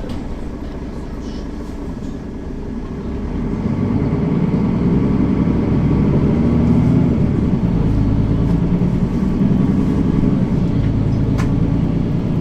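Interior sound of a Mercedes-Benz Citaro facelift city bus under way: the diesel engine and drivetrain run with a deep drone, which swells louder about three seconds in as the bus pulls harder.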